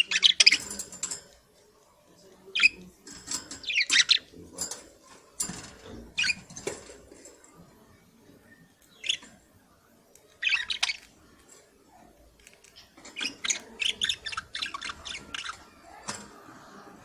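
Budgerigars chirping and squawking in short, sharp bursts separated by brief pauses. The calls come thickest in a rapid run a little after the middle.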